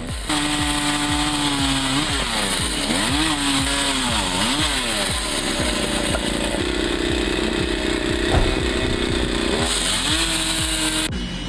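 Chainsaw engine running at high revs, its pitch dipping and rising several times a few seconds in, then holding steady.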